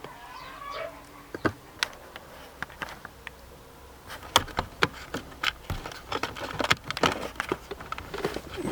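Scattered clicks and light metallic knocks from the metal frame of a car seat back being handled, sparse at first and denser in the second half.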